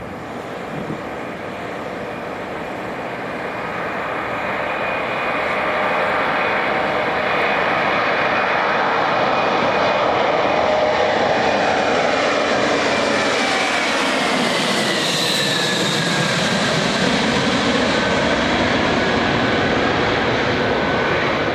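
Jet noise from the four Engine Alliance GP7200 turbofans of an Airbus A380-861 climbing out after takeoff. It grows louder over the first several seconds, then holds steady. Whining tones fall in pitch about halfway through as the aircraft passes.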